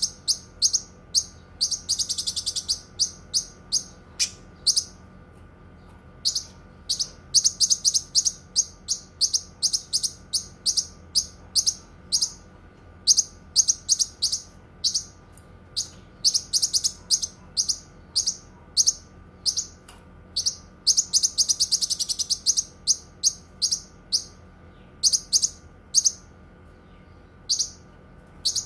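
Cucak kinoi songbird singing: a long run of short, sharp, high-pitched notes in quick succession, broken by brief pauses and thickening twice into dense rapid trills.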